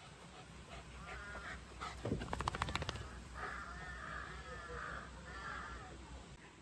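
A bird calling: two drawn-out calls a little after the middle, following a quick run of clicks about two seconds in.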